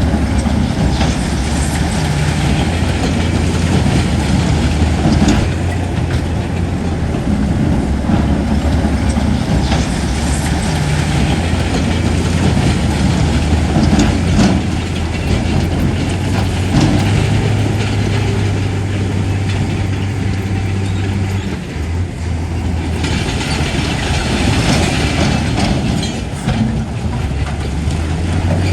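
Heavy earthmoving machinery working: a diesel engine drones steadily, its pitch stepping up about seventeen seconds in and again near the end, over continual clanking and scraping of metal, stone and soil.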